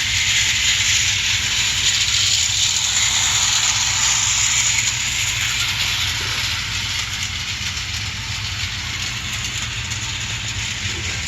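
Clockwork tinplate toy train running on its track: a Bing Table Top Railway locomotive's wind-up spring motor whirring steadily with its wheels rattling along the rails. It grows a little quieter over the second half.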